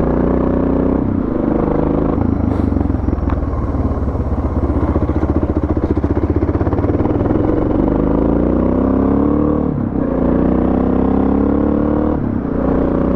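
Suzuki DR650's single-cylinder four-stroke engine under way on a dirt road, the revs climbing and then dropping sharply twice, about ten and twelve seconds in, as it shifts up through the gears.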